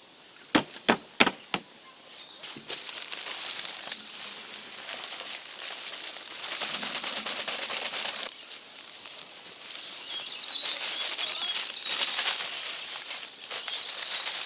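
Coarse river sand and cement being shovelled into a mortar box to make a mortar mix: a few sharp knocks about a second in, then long gritty hissing stretches as the dry material is tipped and slides.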